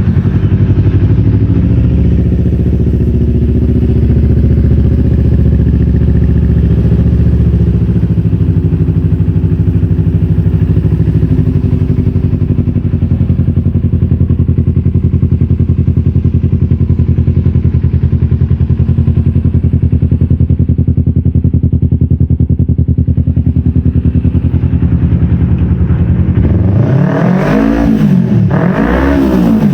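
Kawasaki Ninja 250 Fi parallel-twin engine breathing through an aftermarket Norifumi X4 exhaust on a custom header, idling steadily. It is revved in two quick blips near the end.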